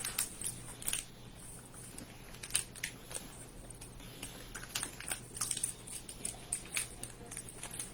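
Faint, close mouth sounds of someone chewing a tough, chewy gummy crocodile candy: small irregular wet clicks and smacks.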